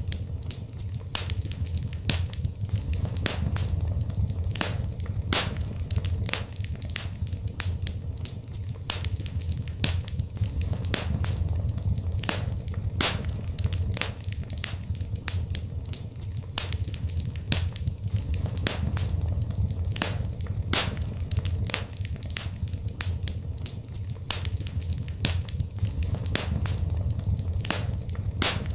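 Fire in a fireplace crackling, with many sharp irregular pops and snaps over a steady low rumble of the flames.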